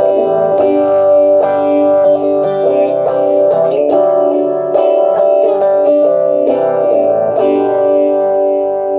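Electric guitar played through a homemade op-amp phaser/vibe pedal in vibe mode, with the dry signal mixed back in, giving the notes a gentle wobble. A run of picked notes and chords ends in a chord left ringing about three-quarters of the way in.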